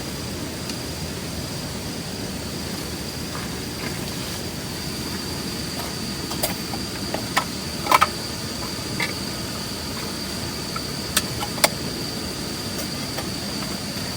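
Insects trilling in one steady high note over a low, steady rumble. Several short clicks and knocks from gear being handled, a cluster a little past the middle and two sharp clicks later on.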